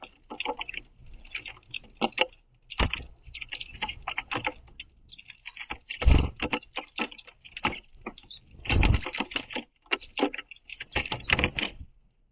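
House sparrows pecking and scrabbling at sunflower seeds on a wooden platform feeder: a busy, irregular run of sharp taps and clicks, broken by a few heavier thumps about three, six and nine seconds in.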